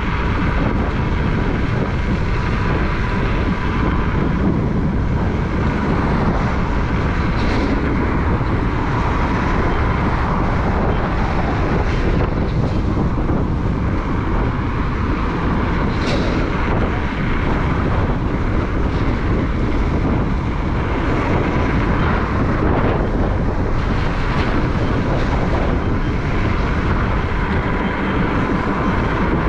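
Steady wind rush buffeting the microphone of a rider moving along on an electric unicycle, with a faint steady whine underneath.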